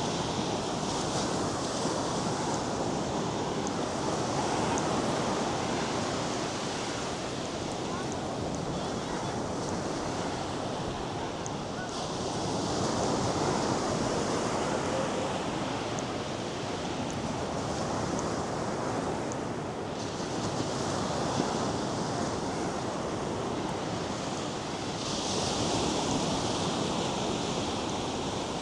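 North Sea surf breaking and washing up a sandy beach, a steady rush that swells and eases every several seconds, with a brighter hiss as each wave runs up the shore.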